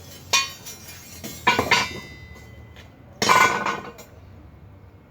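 Metal struck or knocked against metal, with ringing: a clank about a third of a second in, two more close together around a second and a half, and a longer rattling clatter a little past three seconds.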